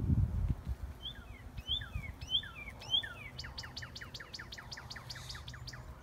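A songbird singing one phrase: four slurred whistled notes, then a quick trill of about fifteen short falling notes. A low rumble fades out in the first half second.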